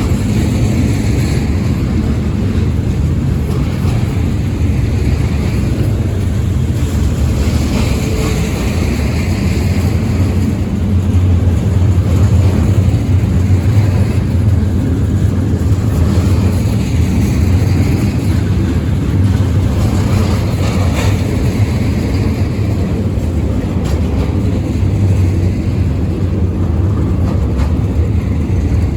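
Freight train rolling past with a steady, loud low rumble.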